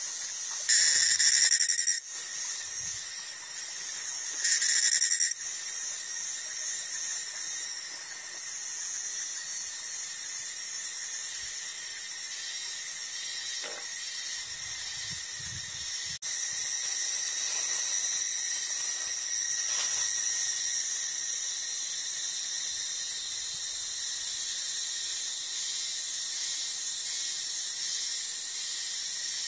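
Cicadas calling in a steady, very high-pitched buzzing drone, with two short louder bursts in the first few seconds and a louder stretch of several seconds about halfway through.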